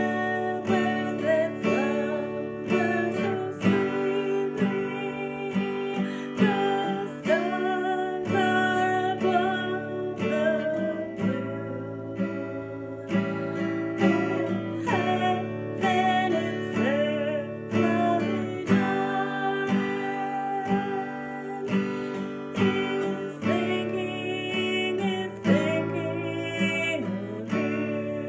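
Acoustic guitar playing an old-time country tune, a picked melody line over strummed chords.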